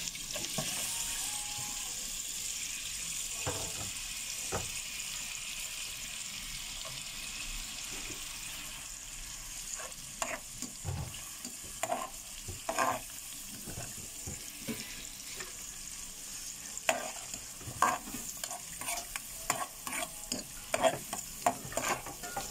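Sliced onion sizzling in melted butter and garlic in a stainless steel pot, the sizzle strongest at first as the onion goes in. From about ten seconds in, a metal spoon stirring gives frequent short scrapes and knocks against the pot.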